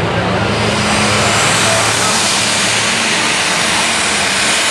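Diesel super stock pulling tractor running at full throttle under load while pulling the sled, a loud steady engine and turbo noise that swells about half a second in.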